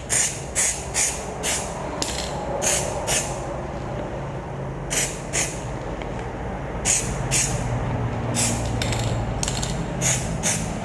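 2K aerosol spray can of paint hissing in short bursts, about sixteen quick squirts, often in pairs a half second apart, as the nozzle is pressed and released to dust paint into the frame tubes.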